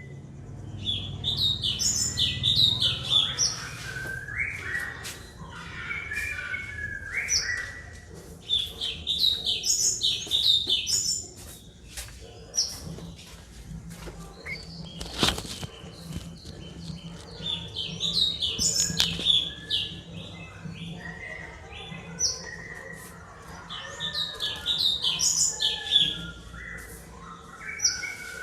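White-rumped shama singing hard: bouts of loud, varied whistles and rapid chirps a few seconds long, with quieter notes between. A single sharp click comes about halfway through.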